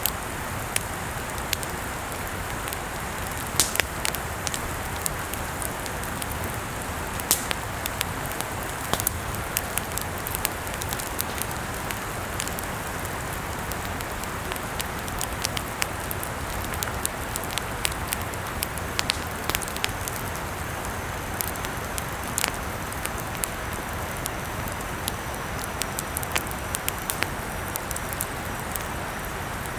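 Wood campfire burning: a steady hiss with frequent, irregular crackles and sharp pops.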